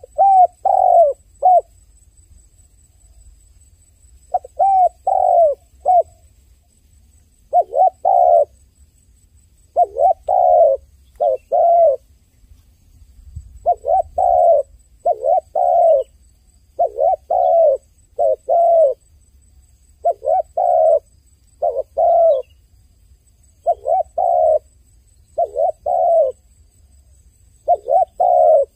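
A dove cooing: short phrases of two to four quick coos, repeated about every two seconds.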